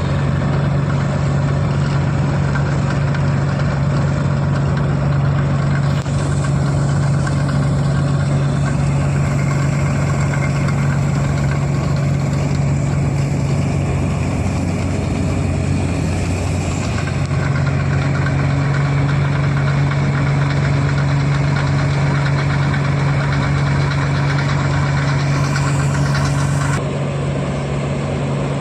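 Heavy farm diesel engine running steadily, a continuous low hum that wavers briefly about halfway through.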